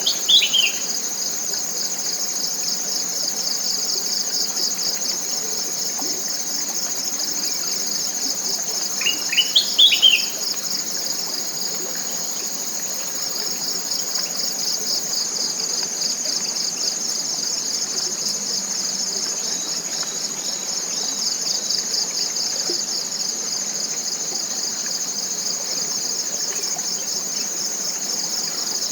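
Steady, high-pitched chorus of forest insects with a fast pulsing trill. A bird breaks in with a few quick, short notes right at the start and again about nine to ten seconds in, the loudest moments.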